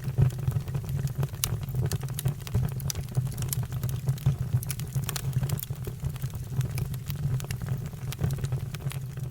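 Fire crackling, with frequent irregular sharp pops over a steady low rumble of burning.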